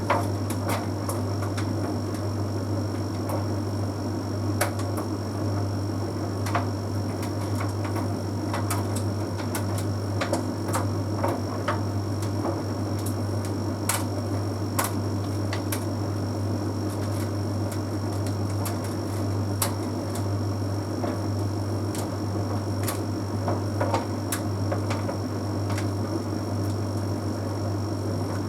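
Bosch Series 6 heat pump tumble dryer running mid-cycle: a steady low hum with a thin high whine above it, and light irregular clicks and taps from the load tumbling in the drum.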